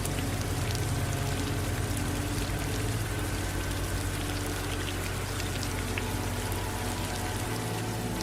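Steady rain falling, an even hiss with scattered drop ticks, over a low steady hum.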